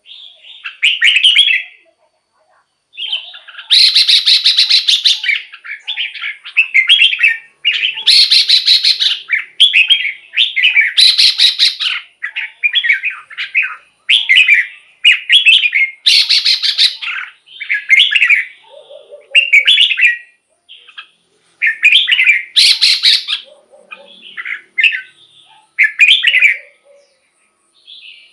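Red-whiskered bulbul singing: short, loud whistled phrases repeated one after another with brief gaps. Several of the phrases are mixed with harsh, scratchy notes.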